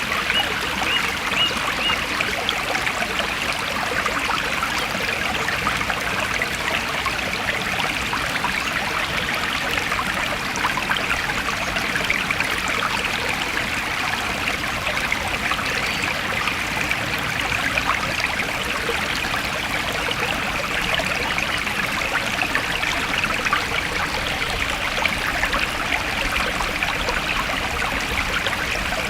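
Stream flowing steadily, an even, unbroken trickling rush of water.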